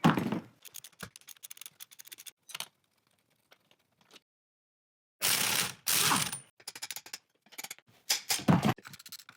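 Workshop tool noise: rapid clicking and ratcheting of hand tools on metal parts, with two louder rattling bursts in the second half.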